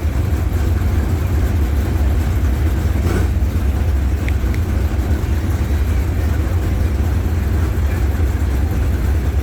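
Dirt race truck engines running together in a steady, loud low rumble.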